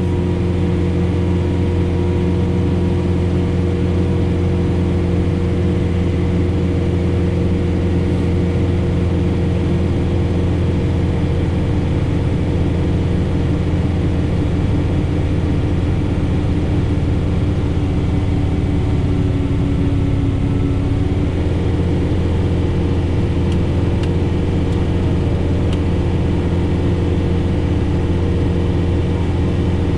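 John Deere 4066R compact tractor's diesel engine running steadily under load while it drives a PTO-powered Frontier SB1174 three-point snowblower through heavy wet snow, heard from inside the closed cab.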